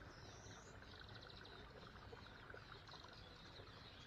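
Near silence, with faint high bird chirps and twitters.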